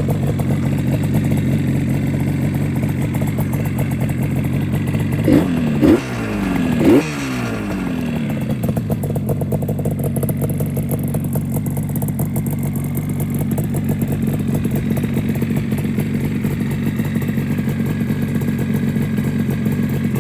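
1976 Yamaha RD400's two-stroke twin idling steadily, blipped twice about five and seven seconds in, each rev rising quickly and dropping straight back to idle.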